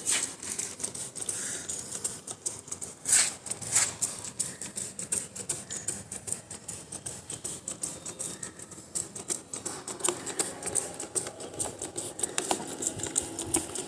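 Hand spray bottle spraying diesel onto the motorcycle: an irregular run of short spritzes and clicks, with a few longer, louder sprays about three to four seconds in.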